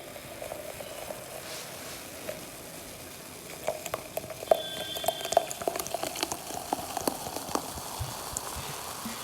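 Coca-Cola fizzing after being poured, a steady hiss with many small crackling pops of carbonation that grow denser a few seconds in.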